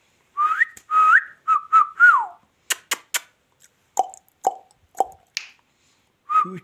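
A short whistled tune: two rising notes, a few quick level notes and a falling glide. Sharp clicks and three short lower peeps about half a second apart follow. The phrase starts again near the end.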